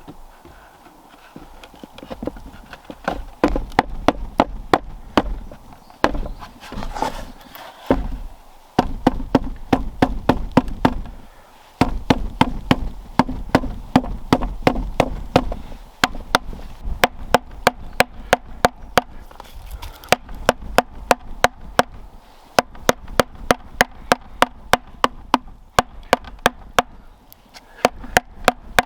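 A hand tool chopping into wood in fast, even strokes, about three sharp knocks a second, in runs broken by short pauses.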